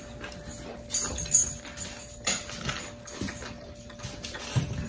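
People chewing and smacking their lips on submarine sandwiches close to the microphone: irregular wet mouth clicks and smacks, a few sharper than the rest, over a faint steady hum.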